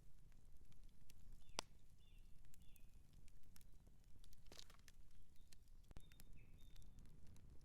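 Outdoor campfire crackling, with scattered sharp pops over a low rumble. A few faint, short high chirps that fall in pitch sound between the pops.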